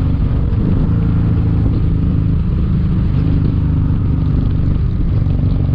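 Kawasaki Vulcan 1700 Vaquero's V-twin engine running at a steady cruise, its pitch shifting slightly now and then, with road and wind noise around it.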